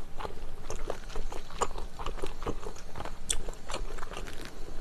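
Close-miked chewing of wide Chinese glass noodles in spicy sauce with green onion kimchi, heard as many short, irregular wet clicks and smacks of the mouth.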